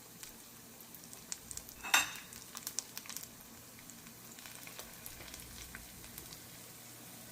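Turon (banana-and-jackfruit spring rolls) frying in hot oil: a steady sizzle with scattered crackles, and one sharp louder crack about two seconds in.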